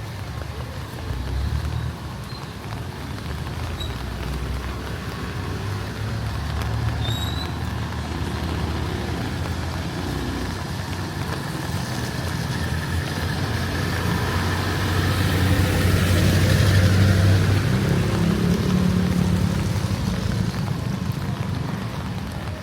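Street traffic: motor vehicle engines running, with one vehicle passing close and loudest about two-thirds of the way through.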